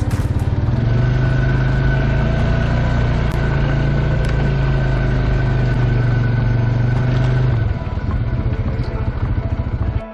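An engine running steadily, easing off about eight seconds in and stopping near the end.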